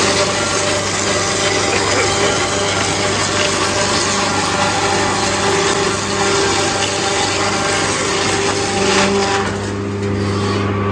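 Sawmill machine running loudly and steadily: a dense hiss over a steady machine hum. About nine and a half seconds in, the hiss eases while the hum goes on.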